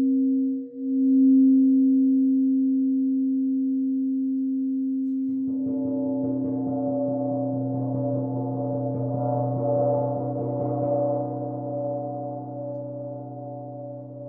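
A crystal singing bowl holds a steady ringing tone. About five seconds in, a gong comes in over it with a dense shimmer of many overtones, which swells and then slowly fades while the bowl's tone continues beneath.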